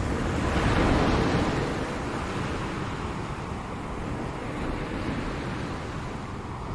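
Ocean waves breaking on a shore: a surge that swells about a second in and then washes out slowly, with the start of the next wave rising near the end.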